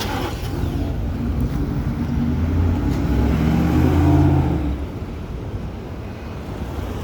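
A motor vehicle going by close, its engine rising in pitch as it speeds up, loudest about four seconds in and gone about five seconds in. A steady low rumble sits under it throughout.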